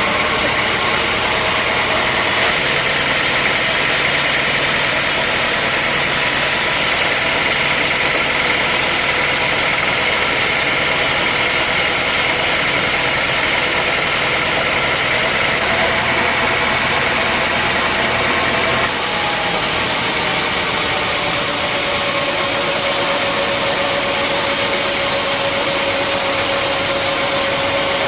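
Sawmill machinery running steadily: a continuous engine drone with a faint steady high whine and no pauses.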